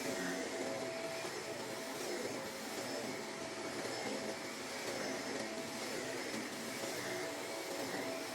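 Vacuum cleaner running steadily over carpet, picking up dog hair: an even rush of air with a faint, steady motor whine.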